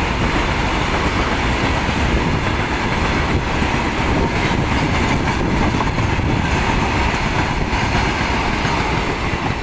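Freight train of hopper wagons running past close by: a steady, loud rumble and clatter of steel wheels on the rails.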